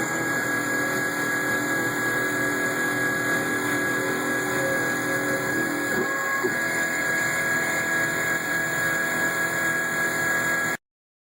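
LMS 3900 HiTorque Mini-Mill running a CNC cut under flood coolant: a steady high motor whine over the noise of the cut, stopping abruptly near the end.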